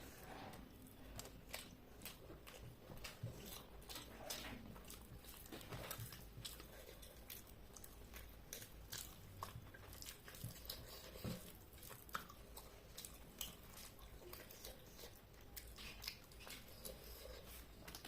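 Faint chewing of a big mouthful of chicken curry, rice and potato, with many small, irregular mouth clicks.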